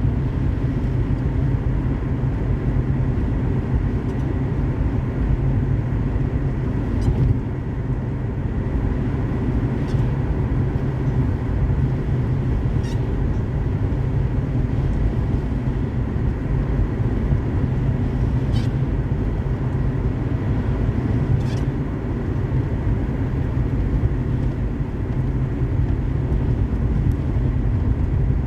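Car driving at highway speed: a steady low road and engine rumble, with a few faint short ticks a few seconds apart.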